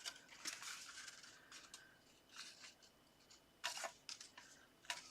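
Faint rustling and light scraping of card and paper being handled and pressed into place, in short irregular bursts.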